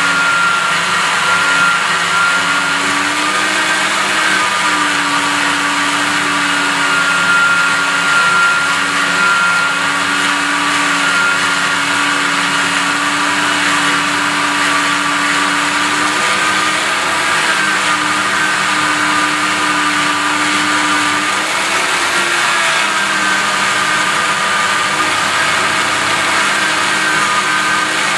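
Electric grinder fitted with a rotating polishing brush, running steadily with a motor hum and whine whose pitch dips a little now and then.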